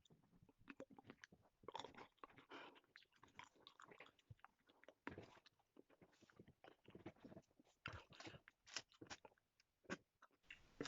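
Faint chewing and wet mouth sounds of someone eating blueberries: a quick run of small clicks and smacks.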